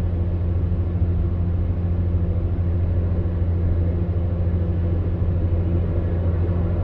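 Electric fan heater running steadily: a low, even hum from its fan motor under a soft rush of blown air.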